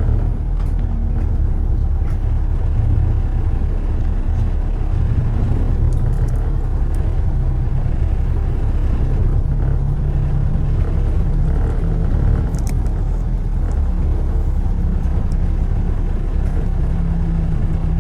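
Steady low rumble of road traffic and tyre noise.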